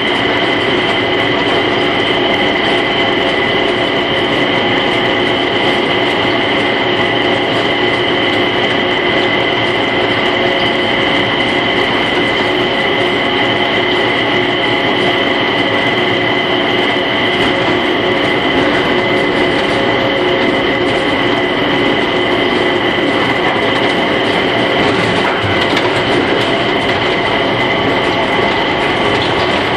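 Automated terminal train at Changi Airport running at a steady speed, heard from inside its cabin: an even rumble with a steady high whine that holds one pitch throughout.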